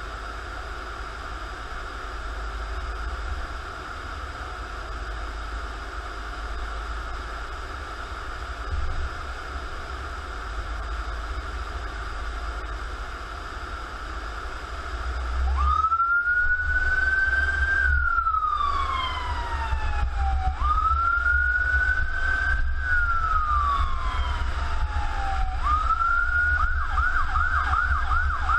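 Emergency vehicle's electronic siren heard over the steady low rumble of the moving apparatus. After about fifteen seconds of engine and road drone, the siren starts up with two slow wails that rise and then fall, then switches to a rapid yelp near the end.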